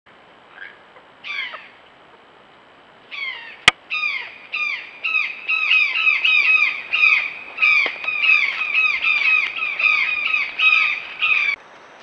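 A bird calling a fast, loud run of short squawking notes, each sliding down in pitch, two or three a second. The run starts about three seconds in and stops abruptly near the end. A single sharp click sounds a little after the calling begins.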